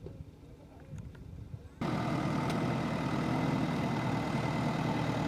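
Backhoe's diesel engine running steadily, cutting in abruptly about two seconds in after a faint background.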